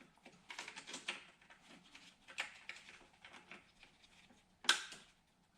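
Hands working plastic engine-bay connectors and parts: scattered light clicks and rattles, with one sharp snap about three-quarters of the way through.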